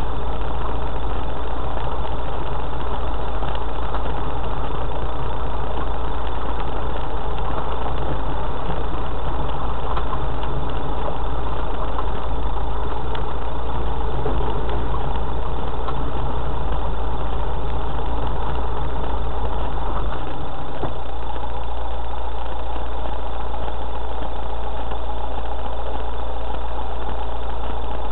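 A 4x4's engine running steadily at crawling speed along a rough green lane. Its deep drone shifts about twenty seconds in.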